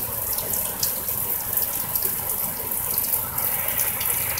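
Heavy rain pouring steadily, with many sharp drops splattering close by.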